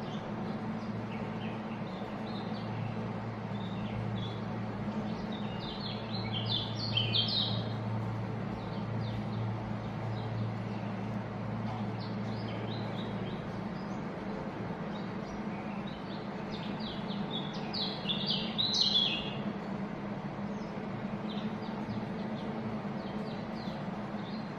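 A flock of white-eyes (pleci) chirping and twittering together in many quick high notes, swelling into two louder bursts of chatter, one about six seconds in and one near eighteen seconds in.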